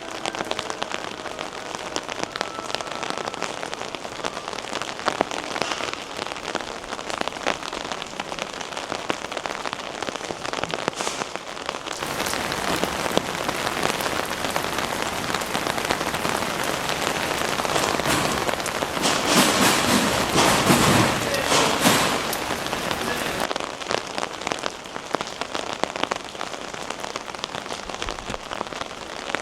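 Steady rain falling, a dense patter of drops on an umbrella. A louder rushing hiss swells in about twelve seconds in, peaks a little past the middle, and drops away sharply about two-thirds of the way through.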